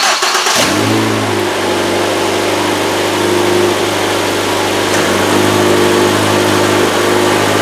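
2012 Ford Escape's 2.5-litre four-cylinder engine starting and flaring briefly, then settling into a steady idle. It is being run after a new belt tensioner and idler pulleys were fitted, to check whether the belt squeak is cured.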